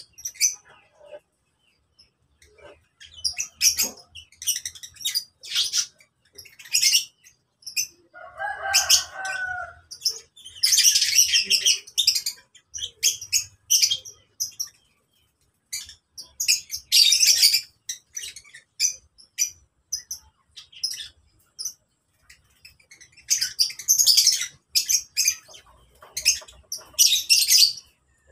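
Lovebirds calling: shrill, high chirps and chatter in bursts of a second or two, broken by short pauses, with one lower chattering phrase about eight seconds in.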